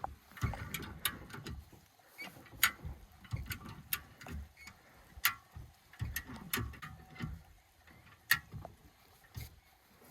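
Irregular sharp clicks and soft low knocks, a few a second, like objects being handled or shifted.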